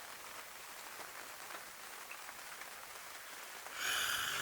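Steady rain falling, an even hiss with faint scattered drop ticks. About four seconds in, a louder hiss starts over it.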